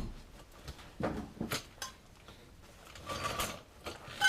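Metal exhaust parts knocking and clanking as they are handled and test-fitted: a few short knocks about a second in, then a longer scraping rattle near the end.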